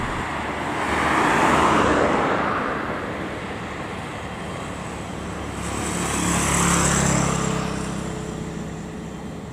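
Two vehicles passing one after the other. Each swells to a peak and fades within about three seconds, the second with a low hum.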